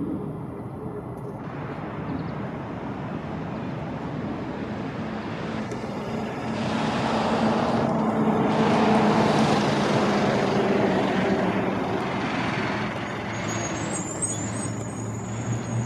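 A motor vehicle driving past on the road, its engine and tyre noise swelling to a peak about halfway through and then fading away, over steady background traffic.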